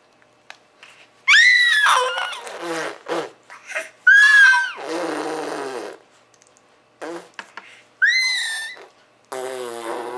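Baby squealing in three high-pitched bursts, about one, four and eight seconds in, between wet spluttering raspberry noises made with her tongue.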